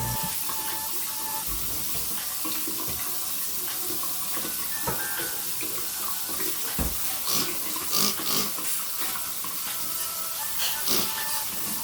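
Water running steadily from a tap into a sink, with a few short knocks and clinks, mostly in the second half.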